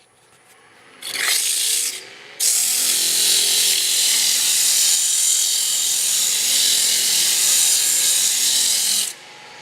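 80-grit sandpaper held against a wooden spindle turning on a woodworking lathe, giving a steady, loud, high hiss. It starts about a second in, eases off briefly, then resumes and runs evenly until just before the end.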